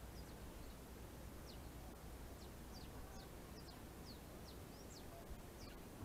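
Small birds chirping faintly: short, high chirps that slide quickly in pitch, about two a second at irregular intervals, over a low steady rumble.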